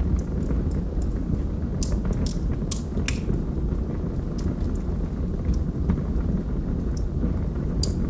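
Wood logs burning in a fireplace: a steady low rumble of flames with scattered sharp crackles and pops, including a run of louder pops about two to three seconds in.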